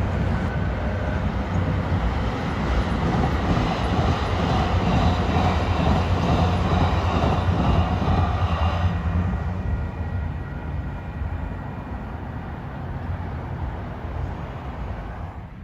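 Large vehicle passing close by: a deep rumble that builds to its loudest in the middle and fades after about nine seconds.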